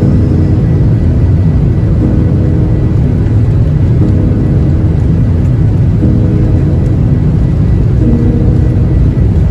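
Loud, steady rumble of a jet airliner heard from inside the cabin, with a low hum that comes and goes about every two seconds.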